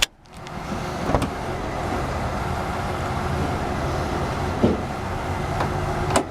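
1999 Chevrolet Malibu's 3100 V6 idling steadily under the opened hood, with a few light knocks over it.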